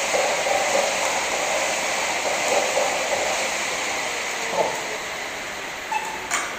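Paddle ergometer's fan flywheel whirring with a steady rushing noise that slowly fades, and a sharp click near the end.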